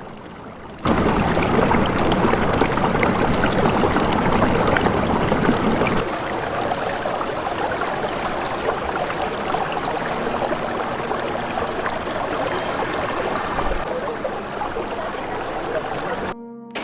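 A stream of running water, an even, steady wash of noise. It starts suddenly about a second in, drops a little in level about six seconds in, and cuts off just before the end.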